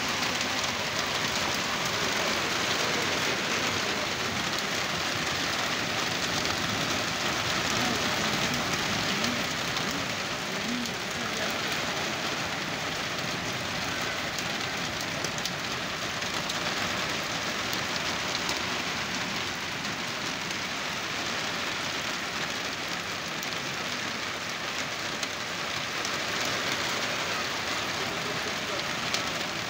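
Heavy rain pouring steadily onto a road and parked cars in a thunderstorm, a dense unbroken hiss that eases slightly after the first ten seconds or so.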